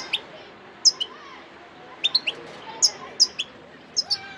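Wild-caught European goldfinch singing: short, sharp, high chirps in quick clusters of two or three, about one cluster a second.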